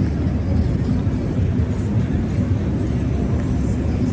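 Steady low rumble of city street noise, even and unbroken throughout.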